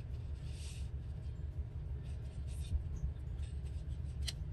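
Paper scraps being handled and shifted, soft rustles and scrapes, with a sharp click near the end, over a steady low hum.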